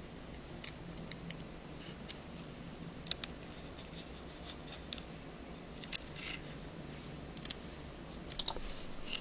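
Faint, scattered light clicks and scratches of a small screwdriver and tiny screws working against the internal brackets of an iPhone 5, coming more often in the second half.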